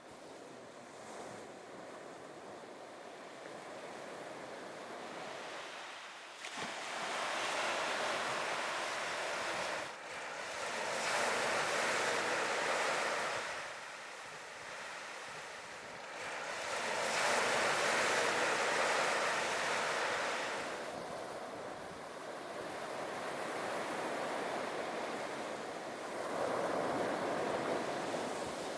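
Sea surf breaking and washing on a beach, swelling and falling in long surges every few seconds, with some wind on the microphone.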